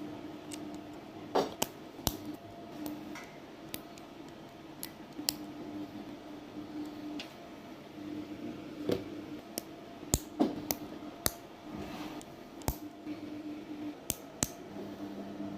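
Plastic LEGO bricks clicking and clattering as pieces are handled and snapped together, with over a dozen sharp clicks at irregular intervals over a faint steady hum.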